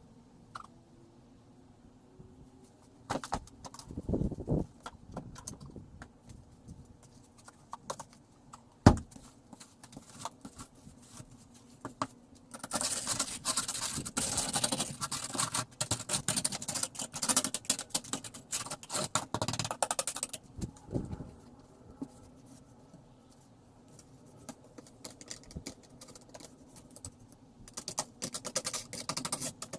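Snow shovel scraping through snow and along the ground, with scattered knocks. There is one sharp, loud knock, then a long stretch of steady scraping in the middle.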